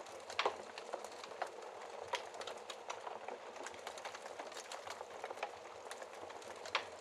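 Wood fire crackling in a fireplace: a steady soft hiss of burning with frequent irregular pops and snaps, a louder pop about half a second in and another near the end.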